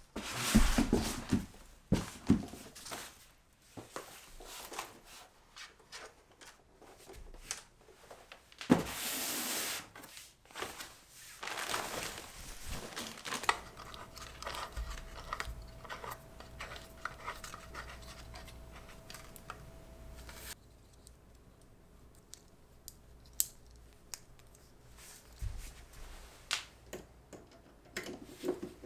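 Close-up handling sounds: rustling, tearing and scraping with scattered small clicks and knocks, a longer noisy tear or rub about nine seconds in, and a faint steady tone for several seconds in the middle.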